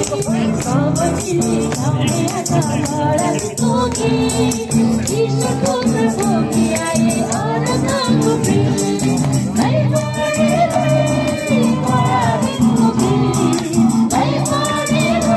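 A group of voices singing a Christmas song over music with steady rattling percussion.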